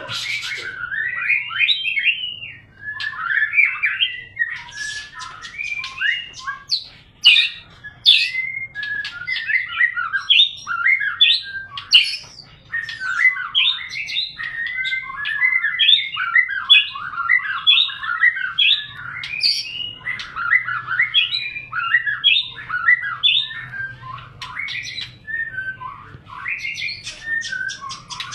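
White-rumped shama (murai batu) singing a long, unbroken run of rapid, varied whistled phrases mixed with sharp chirps.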